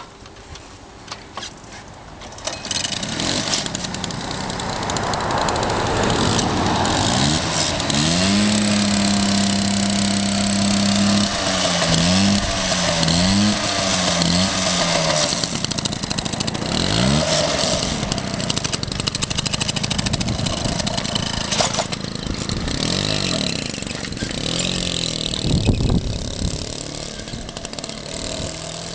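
Peugeot Vogue SP moped's small two-stroke engine starting about two seconds in, then revving: it is held at a steady high speed for a few seconds, blipped up and down several times, and given occasional further revs between spells of running.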